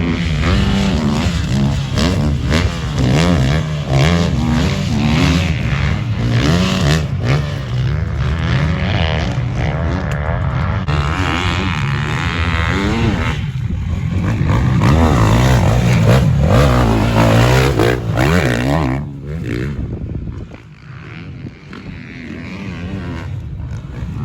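Motocross bikes riding a sand track, their engines revving up and down as they pass, several at once. The engine noise drops away for a couple of seconds near the end, then builds again.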